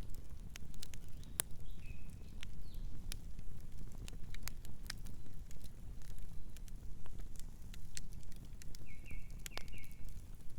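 Campfire crackling: irregular sharp pops and snaps of burning wood over a steady low rumble. Short high chirps sound about two seconds in and again near the end.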